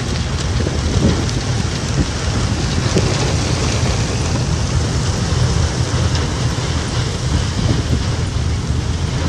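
Storm sound of rain and strong wind, with the wind buffeting the microphone as a loud, steady low rumble.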